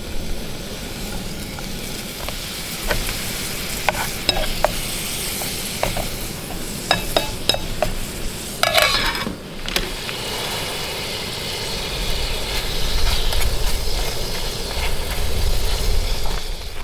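Pancakes and sausage sizzling in a camp pan, with scattered clicks and scrapes of a utensil against the pan, one louder scrape about nine seconds in.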